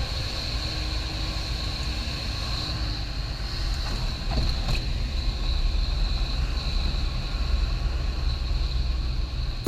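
Velocity light aircraft's piston engine and propeller running steadily in flight, a low drone with a thin, steady high tone over it.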